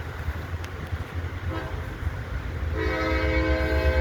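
Diesel locomotive's chime air horn: a brief toot about a second and a half in, then a long blast from about three seconds in, over the low rumble of the locomotive's diesel engine.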